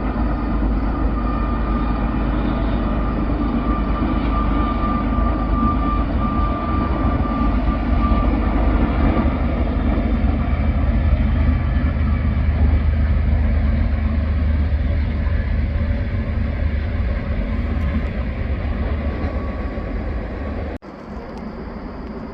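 Steady low mechanical rumble with a faint high whine over it, easing off near the end.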